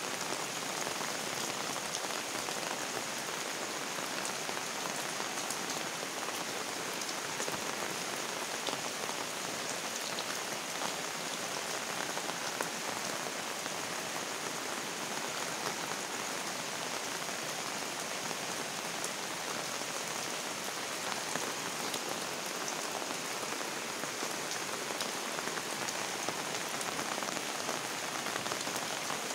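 Steady rain falling: an even hiss with scattered small drop ticks throughout.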